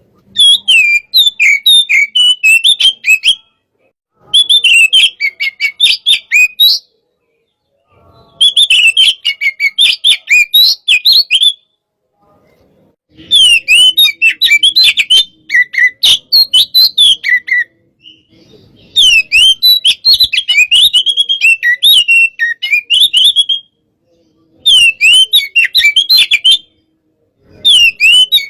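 Oriental magpie-robin (kacer) singing loud, rapid, varied whistled phrases of two to four seconds each, broken by short pauses, about seven phrases in all. It is an aggressive, in-form 'hot-type' bird singing at full volume.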